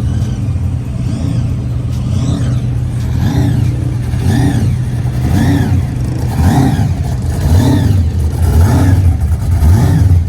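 Car engine running with a deep rumble, then revved over and over from about three seconds in, each rev rising and falling roughly once a second.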